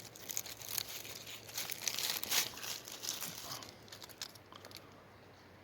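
Rustling and crackling of forest-floor litter being disturbed while a mushroom is found and handled, a dense run of irregular crackles that thins out after about three and a half seconds.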